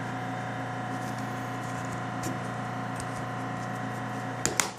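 A steady electrical-sounding hum with a few faint ticks, then a quick cluster of sharp clicks near the end as a plastic comb of the Aprilaire 201 filter media is snapped into its notch in the cabinet.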